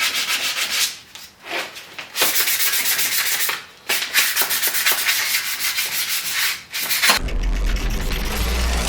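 Fast, rough rubbing strokes, like sanding or scrubbing, in several runs with short pauses. About seven seconds in they stop and a deep booming sound takes over.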